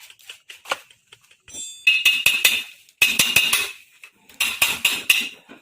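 Metal parts and tools clinking and knocking together in three short clattering bursts with a ringing metallic edge.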